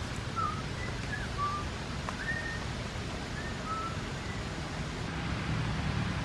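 A bird calling in short whistled chirps, about eight brief notes, some sliding up or down in pitch, over a steady low rumble.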